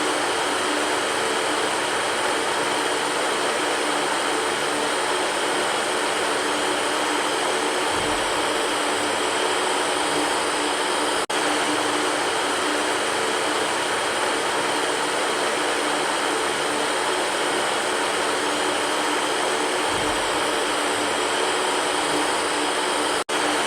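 Electric fan running steadily: a constant rushing air noise with a faint hum. It drops out for an instant twice, about twelve seconds apart.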